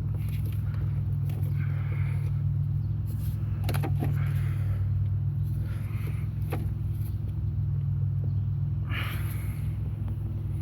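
A vehicle engine running steadily with an even low hum, with a few short clicks about four and six and a half seconds in.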